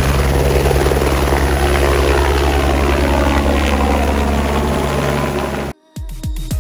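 Helicopter running steadily with an even rotor pulse. It cuts off abruptly near the end and dance music with deep kick drums begins.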